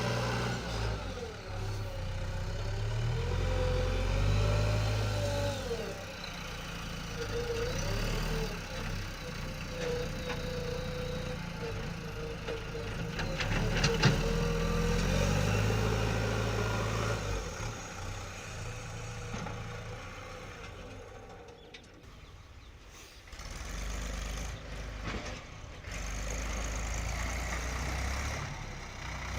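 Diesel engines of a backhoe loader and tractors running, rising and falling in pitch as they rev. A sharp knock about 14 seconds in is the loudest moment, and it grows quieter for a couple of seconds a little past the middle.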